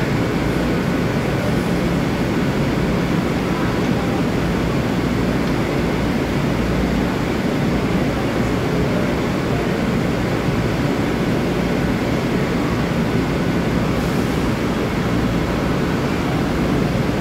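Long Island Rail Road M3 electric train standing at the platform with its doors open, its onboard equipment giving a steady deep hum with faint high whines on top.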